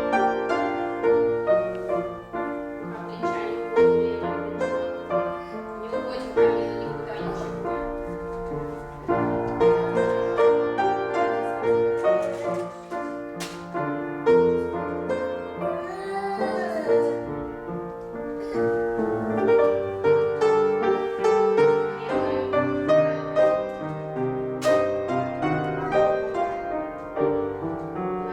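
Piano playing classical-style music with steady, evenly struck notes, the kind of piano accompaniment used for ballet class exercises.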